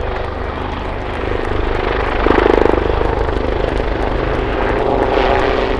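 Royal Navy Wildcat HMA.2 helicopter rotors and turboshaft engines running in a steady loud thrum during a display pass, swelling louder about two seconds in.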